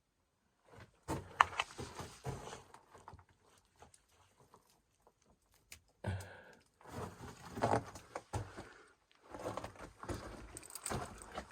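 Footsteps crunching over loose rubble, in irregular bursts with a pause of about three seconds midway.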